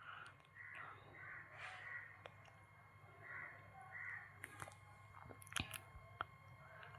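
Near silence with several faint, short bird calls in the first half, and a few light clicks in the second half.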